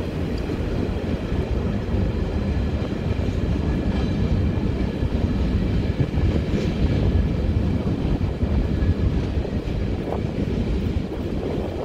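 Freight cars of a manifest train, covered hoppers and tank cars, rolling past on the rails: a steady, dense rumble of wheels on track with faint high-pitched tones above it.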